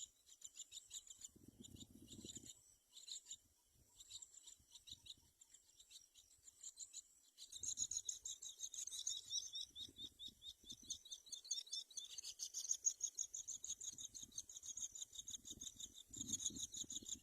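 Nias hill myna nestlings chirping in the nest: a rapid run of high, thin chirps that gets louder and busier about halfway through, with a few low rustles and bumps of movement in between.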